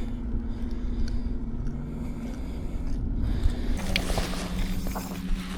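A boat's motor humming steadily with a low rumble, its pitch dropping slightly a little under four seconds in, with a few faint clicks and knocks in the second half.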